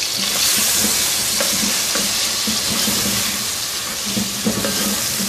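Chicken pieces and ground spices sizzling in hot oil in a metal pot, stirred with a plastic spoon. The steady sizzle is a little stronger in the first half.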